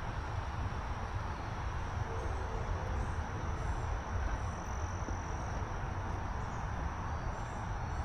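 Evening woodland ambience: insects droning steadily on one high note, with faint bird chirps above it, over a constant low rumble.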